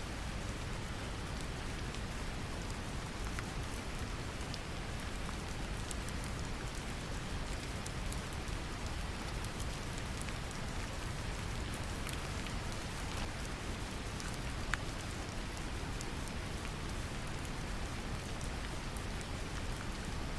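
Steady brown noise blended with gentle rain: a deep, even rumble with scattered raindrop ticks on top.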